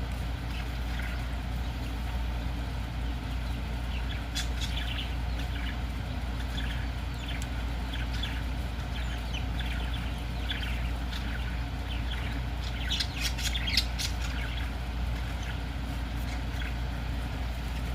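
Pineapple green-cheeked conure making scattered soft short chirps and clicks, with a cluster of sharper clicks about thirteen seconds in, over a steady low hum.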